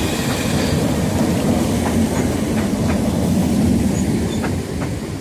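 Two coupled Great Northern Class 313 electric multiple units running along the platform: a steady rumble with the wheels clicking now and then over the track.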